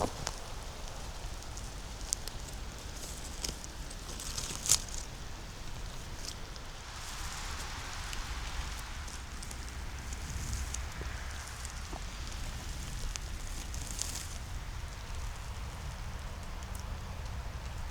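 Footsteps crunching through leaf litter on the forest floor, with scattered sharp crackles of twigs snapping underfoot, one louder snap about five seconds in, and a stretch of rustling leaves partway through.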